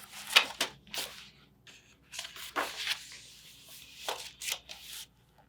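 Paper rustling and swishing as the pages of a picture book are handled and turned, in a series of short strokes, the sharpest about half a second in.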